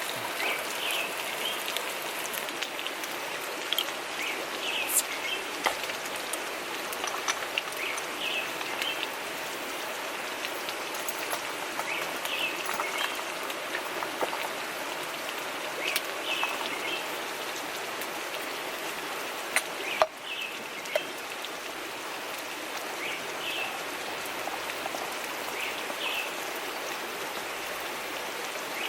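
Steady rushing of a river, with small birds chirping now and then and a few sharp clicks.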